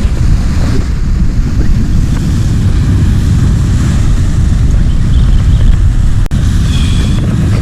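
Loud, steady rumbling wind buffeting the microphone, mixed with surf washing over shoreline rocks.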